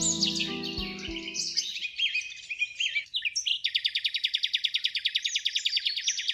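Songbirds chirping and whistling, ending in a long, fast trill of evenly repeated high notes, about a dozen a second. Soft background music fades out about two seconds in.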